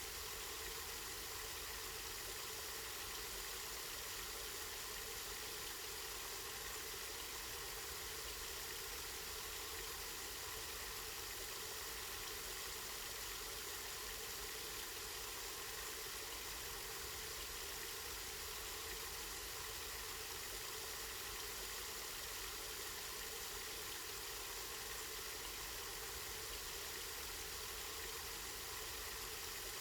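Water running steadily from a spring: an even, unbroken rushing hiss.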